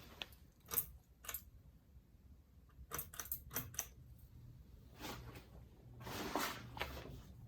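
Several sharp clicks, a few near the start and a quick cluster a few seconds in, consistent with the ceiling fan's speed switch being worked to set low speed. They are followed by a faint steady low hum as the 42-inch Hampton Bay Grayton ceiling fan's motor starts running on low.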